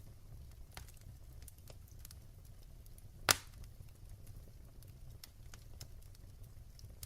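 Wood fire burning in a fireplace, with a low steady rumble and scattered faint crackles and pops. One much louder sharp pop a little past the middle.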